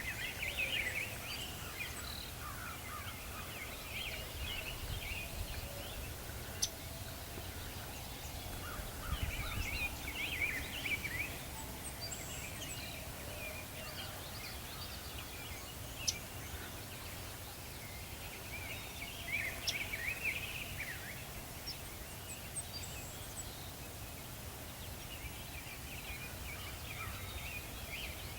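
Wild turkey gobbling several times, each gobble a rapid rattling burst of about a second or two, coming roughly every ten seconds over a steady low rumble, with a few sharp clicks between.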